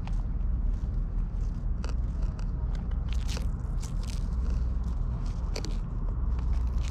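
Irregular crunchy clicks and scrapes of a cat biting and chewing, over a steady low rumble.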